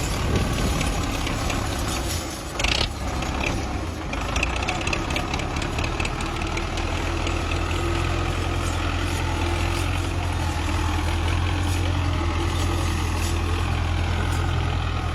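Belarus tractor's diesel engine running steadily with a low hum, with a short hiss about two and a half seconds in.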